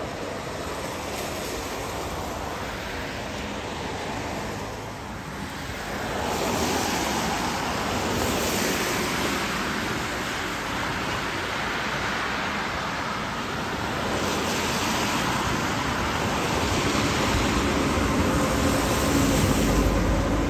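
Rail vehicles passing on the track: a steady rushing of wheels and running gear that swells about six seconds in and again towards the end, where a faint motor hum and a low rumble come in as a train passes close by.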